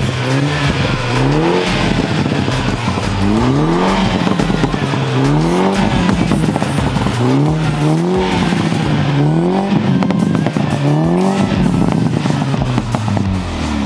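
Engine of a modified Mini John Cooper Works with a hybrid turbo and a turbo-back straight-through Akrapovič exhaust, its revs climbing and dropping back again and again, about every second and a half.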